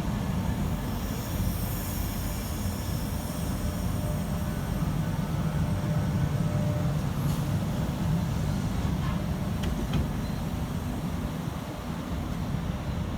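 A train running on the track: a steady low rumble, with a faint high wheel squeal in the first few seconds.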